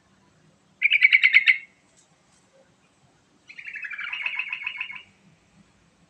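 Yellow-vented bulbul singing two bubbly phrases of rapid notes: a short, loud one about a second in, and a longer one at about three and a half seconds that slides down in pitch.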